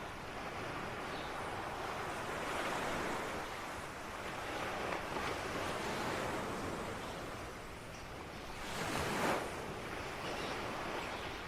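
Ocean waves washing onto a shore in a steady rush of surf that swells and eases, with the biggest wave breaking about nine seconds in.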